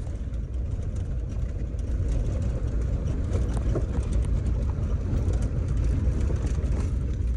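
Car driving along: a steady low rumble of engine and tyres with light scattered rattles.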